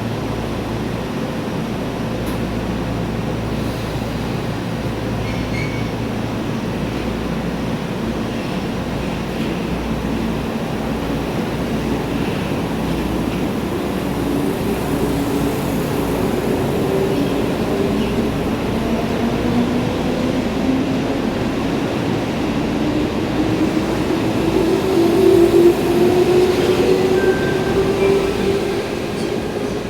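Electric commuter train pulling out of the station: a steady rumble, then a whine from its motors that rises slowly in pitch as it accelerates, loudest near the end.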